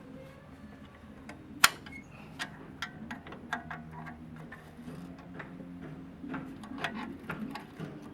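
Irregular clicks and knocks of hand tools on metal parts, with one sharp knock about a second and a half in.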